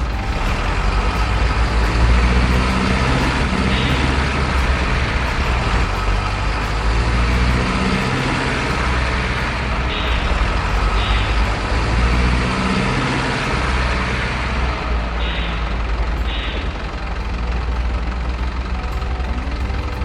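Radio-controlled model trucks running, with a steady truck-like engine drone whose pitch drifts up and down. Short hissing bursts come several times, around 4, 10, 11, 15 and 16 seconds in.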